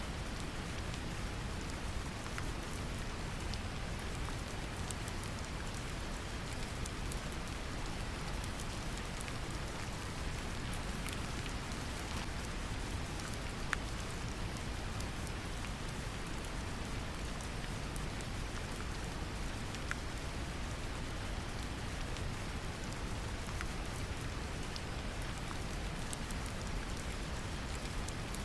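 Steady brown noise, a deep even rumble, mixed with falling rain whose individual drops tick faintly on top.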